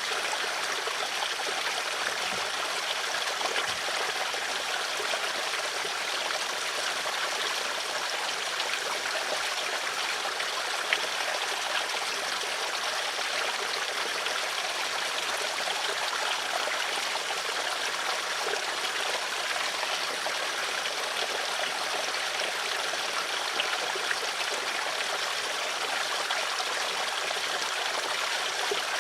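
Stream of water flowing steadily, with a light trickling and babbling of water.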